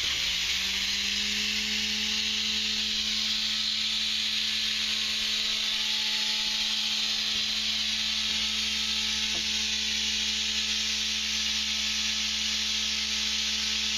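A power tool running steadily with a loud hiss. Its motor hum comes in right at the start, rises slightly, then holds steady.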